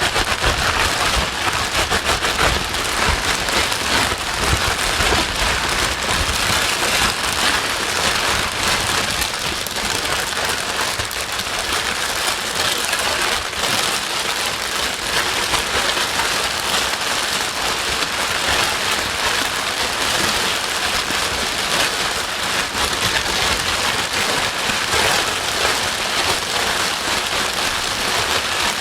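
Steady white noise like heavy rain: a dense, even hiss with a fine crackle of drops through it.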